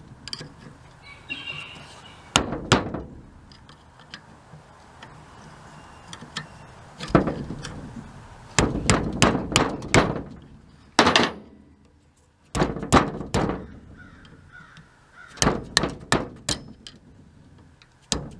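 Hammer tapping on the metal parts of a Blackmer TDX2D vane pump, knocking stuck vanes out of the rotor: irregular sharp strikes in bursts, some in quick runs of three or four, with pauses between.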